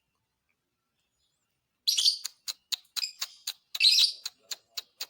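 Lovebird singing: after a silent start, harsh high chattering bursts begin about two seconds in, interleaved with a rapid run of sharp ticking notes, about three to four a second.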